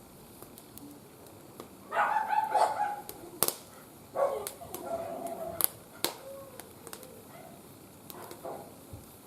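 Sharp pops of burning wood in a small fire, with two short voice-like calls, about two and four seconds in, louder than the pops.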